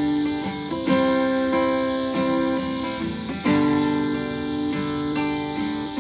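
Guitar strumming sustained chords, with a new strum about every second, as the instrumental intro of a worship song before the singing comes in.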